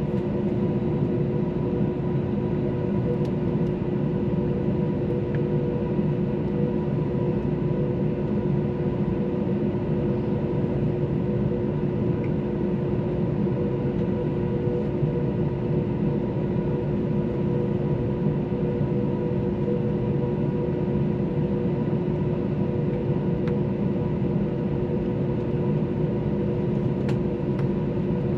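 Steady cabin noise inside an Airbus A321 under way: a constant rumble of engine and airflow, with a few steady engine tones over it.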